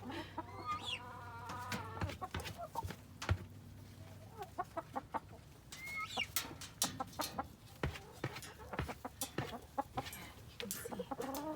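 Backyard hens clucking and calling, with a drawn-out call in the first couple of seconds, over many short sharp taps and clicks.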